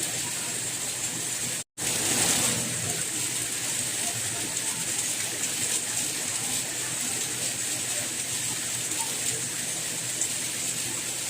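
Steady, hissing rain, with one brief cut to silence about two seconds in before the rain resumes.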